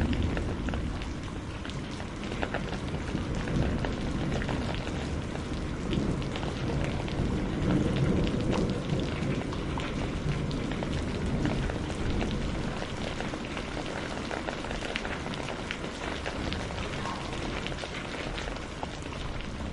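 Steady rain falling, with a low thunder rumble underneath that is loudest at the start and dies away by about halfway through.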